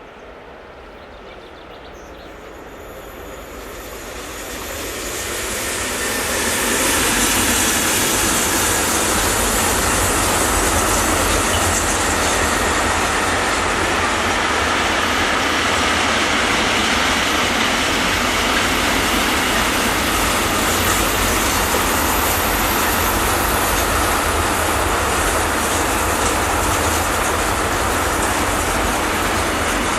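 A train passing on the main line: its running noise grows louder over the first seven seconds, then holds as a long, steady rush of wheels on rail as the train rolls by.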